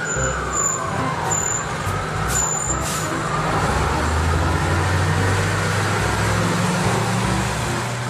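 Diesel engine of a heavy six-wheel-drive fire tanker truck driving past, a steady rumble that grows louder as it comes closest, about halfway through.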